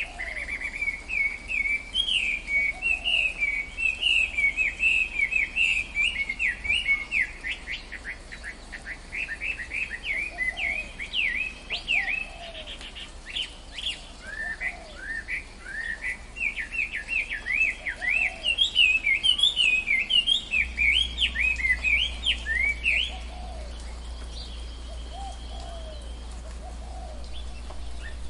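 Forest birds chirping in fast, dense runs of high, sweeping notes, with fainter lower calls repeating underneath; the high chirping stops a few seconds before the end.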